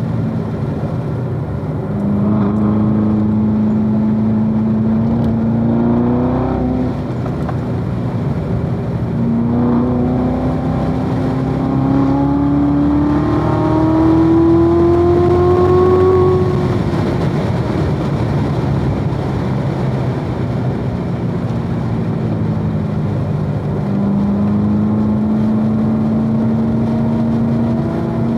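2016 Corvette Z06's supercharged 6.2-litre V8 under load on track, its note climbing steadily in long pulls, falling back as the driver lifts or shifts, then climbing again near the end.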